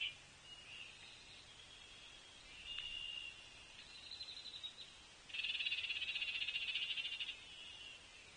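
A frog chorus: a loud, rapidly pulsing trill lasting about two seconds near the middle, with shorter, fainter trills before and after.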